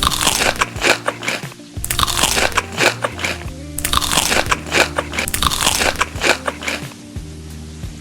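Crunchy food being bitten and chewed close to the microphone, in three spells of crackly crunching that stop a little before the end, over background music with a steady bass line.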